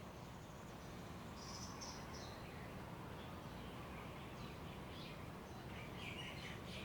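Forest songbirds calling faintly over a steady background hiss: a short high chirping phrase about a second and a half in, then a run of short chirps building toward the end.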